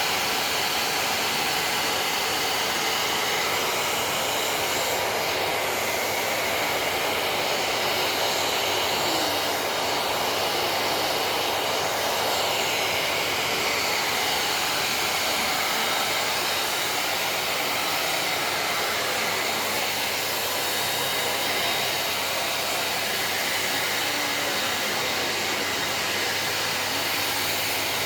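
Vacuum cleaner running steadily, its motor and rushing air making a constant, even noise.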